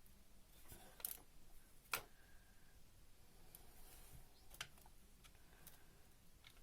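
Faint, sharp clicks of small metal diesel-injector parts being handled on a workbench, two loudest about one and two seconds in and another a little after four seconds.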